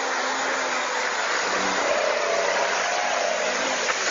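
Steady rushing noise of a moving vehicle, with a faint low hum underneath.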